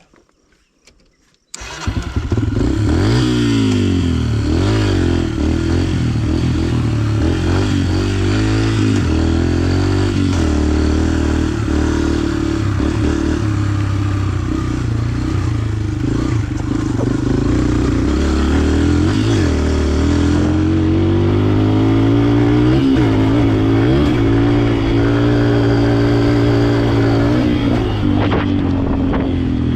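125cc four-stroke dirt bike engine, loud, starting suddenly about a second and a half in, then revving up and down repeatedly as the bike is ridden.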